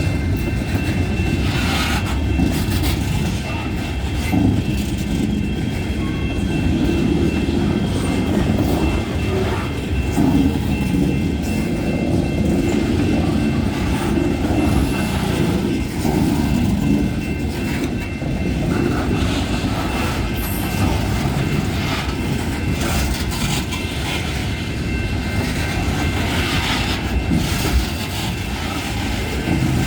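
A freight train of loaded garbage cars rolling past, with a steady low rumble of wheels on rail and scattered clicks from wheels over rail joints.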